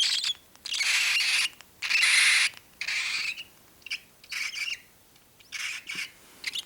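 Nine-day-old cockatiel chick making a series of short, raspy calls, about one a second, getting quieter toward the end.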